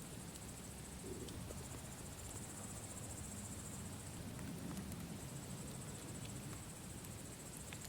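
Campfire crackling, with scattered small pops over a low steady rumble, and crickets trilling steadily in the background.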